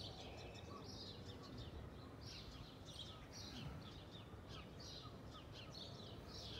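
Small birds chirping: short high notes repeating about twice a second over a faint steady background noise.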